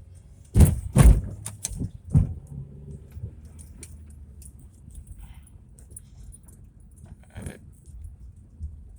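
Several sharp knocks and rattles inside a driving car, the loudest two about half a second apart about a second in and a third a second later, with a smaller one near the end, over the low steady drone of the car.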